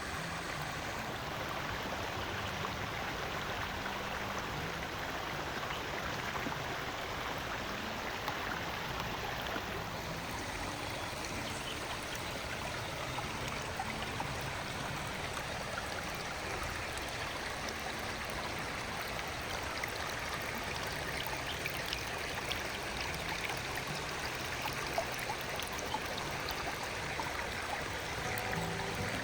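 Stream water flowing steadily, an even rushing that does not let up.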